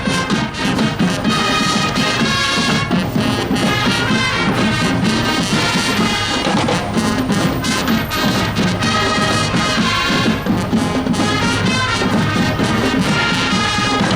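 Marching show band playing a brass tune with drums keeping a steady beat.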